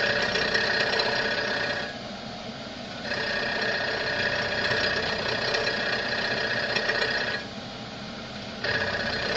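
Comet 3KVHD knee mill running at 800 rpm with its cutter milling a wheel: a steady high whine with a hiss of cutting. The higher cutting sound drops away twice for about a second, leaving the quieter machine hum.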